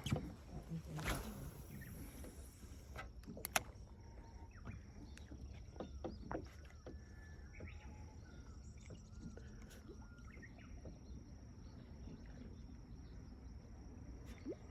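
Quiet outdoor ambience on open water: a low steady background with a few light clicks and knocks, faint bird chirps, and a thin steady high-pitched tone.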